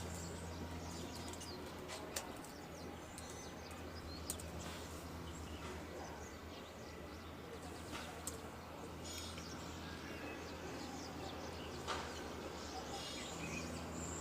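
Outdoor ambience: scattered bird chirps over a steady low hum, with a few sharp clicks.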